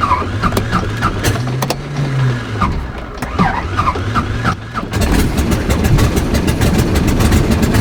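Primed, cold seven-cylinder Jacobs radial engine being cranked by its starter, with scattered pops as cylinders begin to fire, then catching about five seconds in and running steadily.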